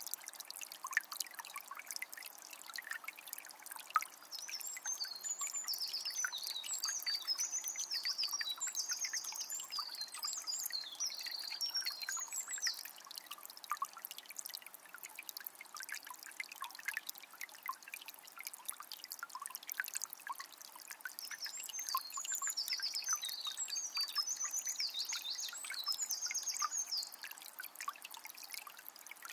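Calm forest river flowing steadily, a continuous rush of water with many small splashes. A bird sings high, quick phrases twice, the first about five seconds in lasting some eight seconds, the second past twenty seconds lasting about five.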